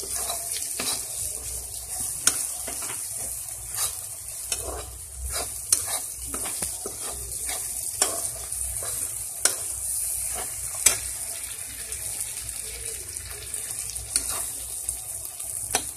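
Masala of onion and ginger-garlic paste sizzling in oil in a kadai, with a spatula stirring and scraping against the pan in irregular clicks and scrapes.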